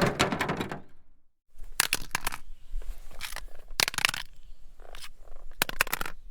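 A series of short, sharp impacts and cracks in irregular clusters, with a brief gap about a second in.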